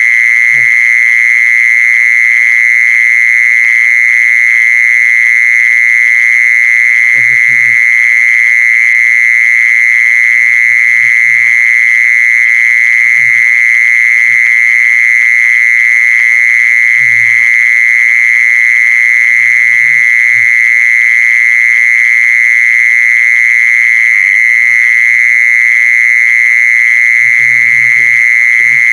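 Mole cricket (Thai 'jee-son') singing: a loud, continuous, steady high-pitched trill that never breaks. Faint low murmurs come and go underneath it a few times.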